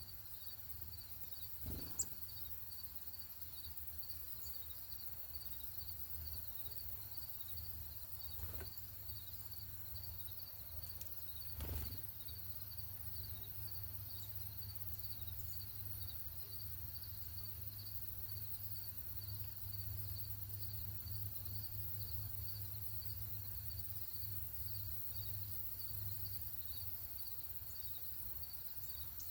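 Outdoor ambience of insects chirping in a steady, even, high-pitched pulsing rhythm over a low rumble, with a couple of brief knocks, one about two seconds in and one near the middle.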